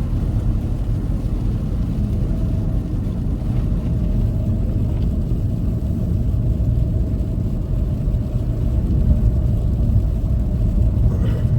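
Steady road noise heard inside a moving car's cabin at highway speed: a low rumble of tyres and engine, with a faint steady hum joining about two seconds in.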